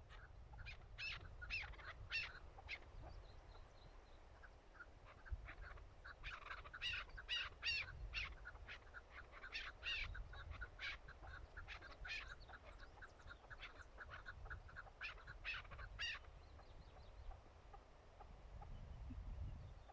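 Chukar partridges calling: rapid series of short clucking notes in three bouts, over a low rumble.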